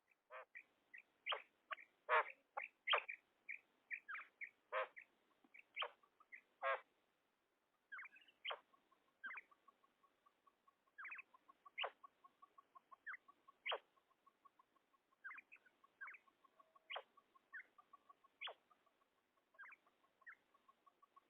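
Female common quail calling: short sharp calls repeated irregularly, close together at first, then more spaced out after a brief pause. From about eight seconds in, a faint fast ticking runs underneath.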